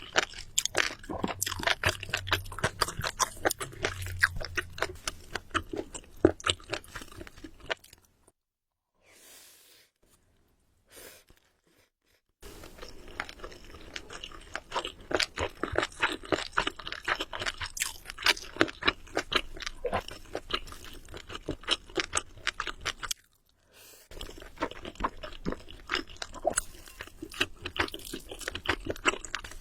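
Close-miked eating: a person chewing and crunching food, a dense run of small crisp clicks. It drops to near silence for about four seconds some eight seconds in, and again briefly near the end.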